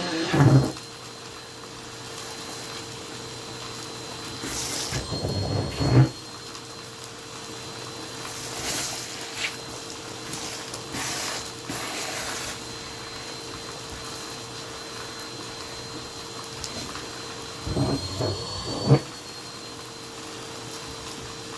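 Vacuum cleaner running steadily with a constant motor hum and whine, picking up crumbs. Louder bursts of noise break in briefly near the start, about five to six seconds in, and near the end.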